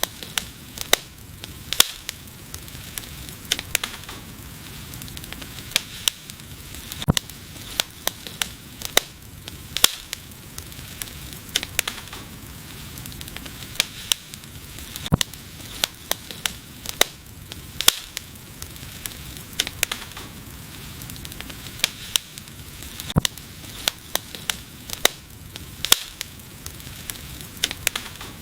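Wood fire burning, with irregular sharp crackles and pops over a steady soft hiss and bubbling of the flames.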